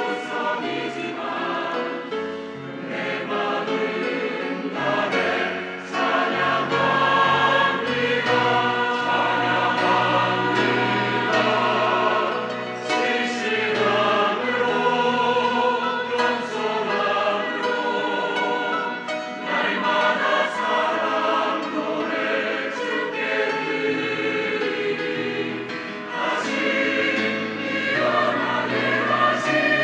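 Church choir singing a praise song in parts, over a steady low accompaniment.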